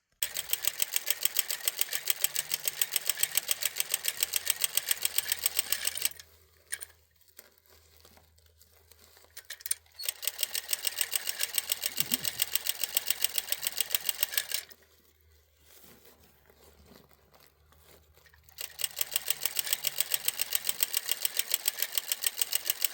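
A small machine running with a rapid, even clatter of strokes, several a second. It runs in three spells, stopping about six seconds in, starting again near ten seconds, stopping again, and resuming near the end.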